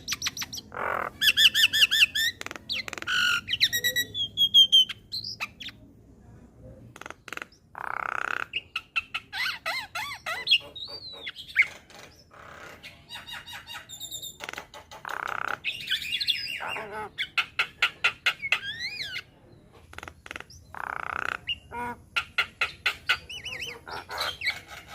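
Javan myna (jalak kebo) singing a varied song: harsh squawks, whistled rising and falling notes, and fast chattering runs of repeated notes, with short pauses between phrases.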